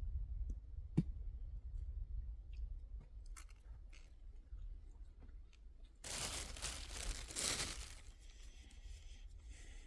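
Scattered small clicks and knocks, one sharper about a second in, then about two seconds of crinkling, tearing noise, like packaging or paper being torn or crumpled.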